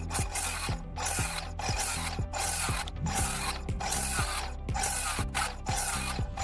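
Circular saw with a 7-1/4 in. blade making cut after cut through 2x6 treated lumber in rapid succession. The cutting noise breaks off briefly about every two-thirds of a second.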